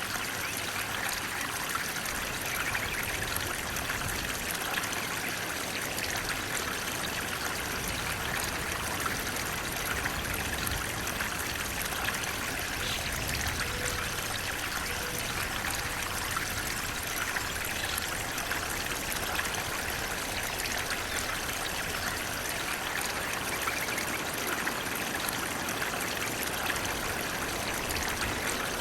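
Flowing water: a steady stream running and trickling, with an even, unbroken rush.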